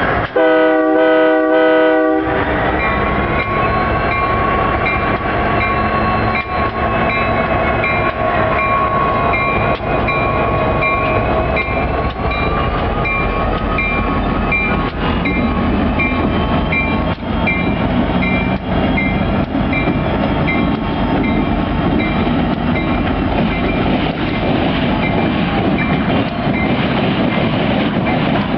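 Diesel locomotive horn sounds one blast of about two seconds. The locomotive then moves with a steady engine rumble and whine, a high ping repeating about twice a second, and scattered clicks from the wheels on the rails.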